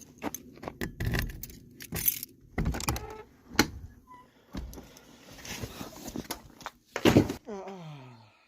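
Keys jangling and clattering, with a loud clunk about seven seconds in, then a short creak that falls in pitch.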